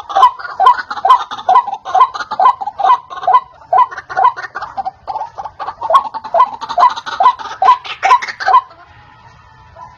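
White-breasted waterhen (ruak-ruak) calling a fast, repeated two-note croak, about three calls a second, breaking off near the end.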